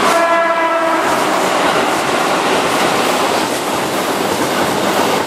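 Keihan 6000 series electric train passing close by: a steady running noise of wheels on rails with clicking over rail joints. A high ringing tone fades out within the first second.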